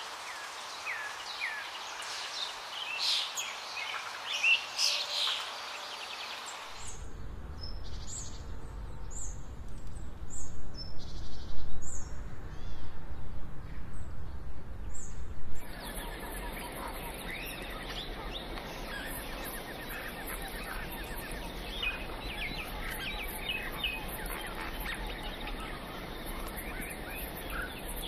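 Wild birds chirping and calling in outdoor ambience that changes twice. First comes a busy run of short, high chirps. About seven seconds in it gives way to a low rumble with only a few scattered chirps. From about sixteen seconds a steady high insect-like hiss runs under more bird calls.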